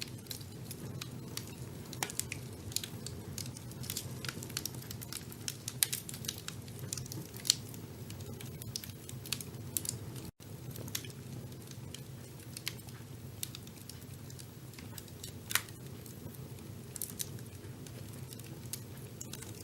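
Wood fire burning in a fireplace: irregular crackles and sharp pops over a steady low rumble of the flames, with a few louder pops. The sound drops out for a split second about halfway through.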